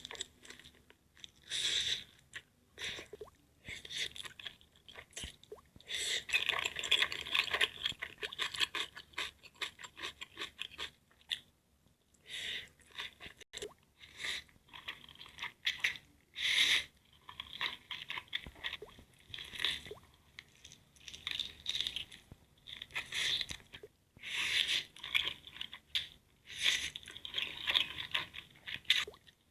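Close-miked eating: crunchy bites and chewing in irregular bursts, with brief pauses between mouthfuls.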